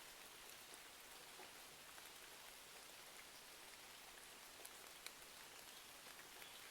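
Faint, steady rain hiss with scattered small ticks and crackles, one sharper tick about five seconds in.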